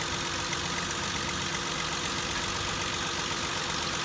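2006 Ford Explorer engine idling steadily with its drive belt cut off, running evenly with no misses.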